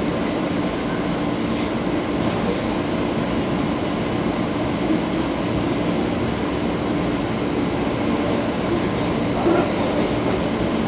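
Interior of a JR West 115 series electric train pulling away from a station: a steady hum with rail running noise and a few light knocks.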